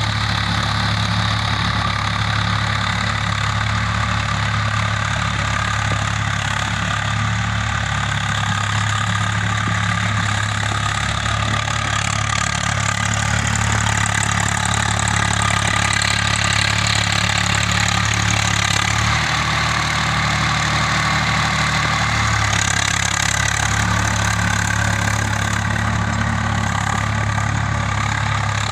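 Swaraj 855 tractor's three-cylinder diesel engine running steadily as it tills a field, with a brief change in the engine note about twenty seconds in.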